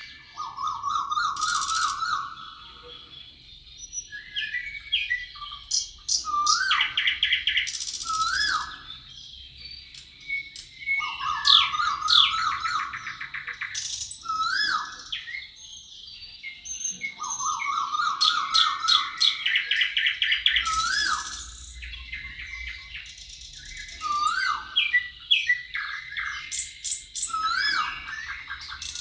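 Several forest birds singing: a rapid trill repeated every few seconds, short rising whistled notes and quick high chirp series, over a faint steady high-pitched tone.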